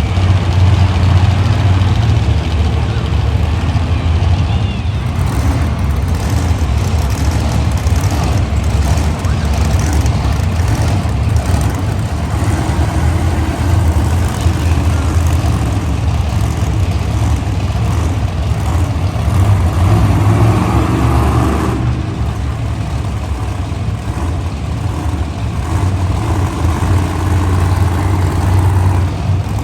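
Monster truck engines running loud inside an arena, a steady low drone throughout.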